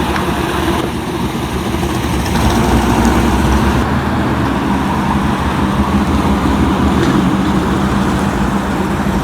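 A motor vehicle's engine running loud and close, a steady rumble with a faint even hum and much noise across the range.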